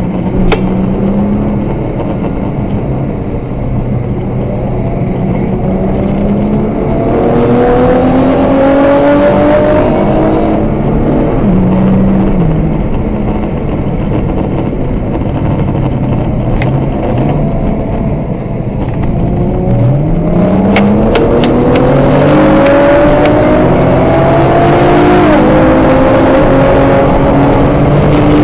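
Car engine heard from inside the car, accelerating hard through the gears on a race track: its pitch climbs, drops at the gear changes, and climbs again after easing off about a third of the way in. Steady tyre and spray hiss from the wet track runs underneath.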